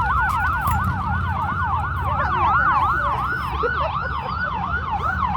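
Several sirens of the presidential motorcade's escort vehicles wailing together in a fast yelp, their rapid up-and-down sweeps overlapping, over a steady low rumble of traffic.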